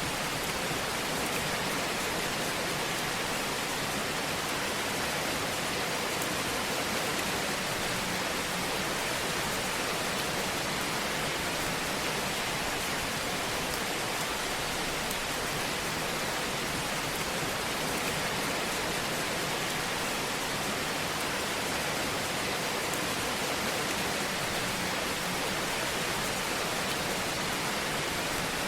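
Fire burning in a fireplace: a steady, even hiss with occasional faint small crackles.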